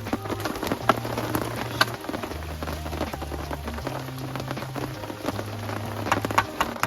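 Rain falling and pattering on surfaces, with scattered sharp drips, over a soft bass line of background music.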